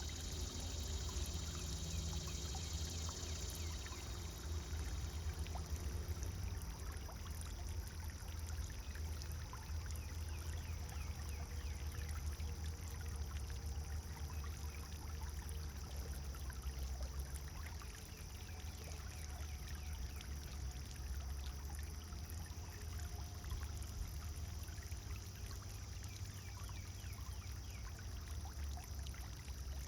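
Pond fountain water pouring and splashing steadily into the pond.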